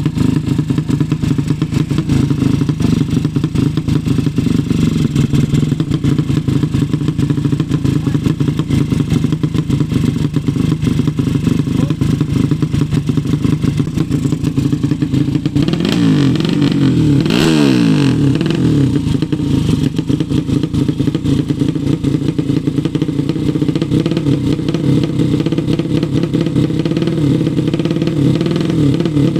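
200 cc racing motorcycle engine running steadily, revved briefly about two-thirds of the way through, then settling back to its steady note.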